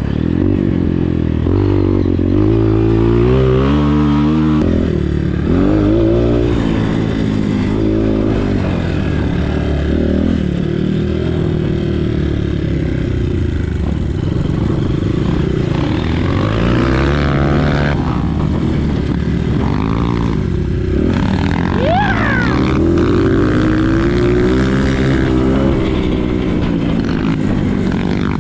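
Motocross dirt bike engine revving hard and backing off again and again, its pitch climbing and dropping through the gears.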